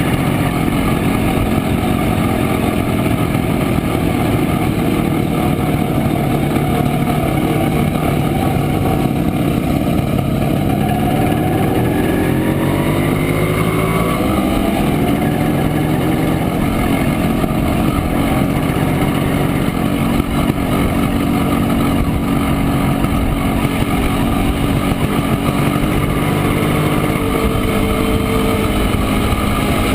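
Montesa Impala Comando 175 cc two-stroke single-cylinder engine running under way, heard from on board over steady wind rush. About halfway through, the engine note climbs as the bike accelerates, then settles back to a steady run.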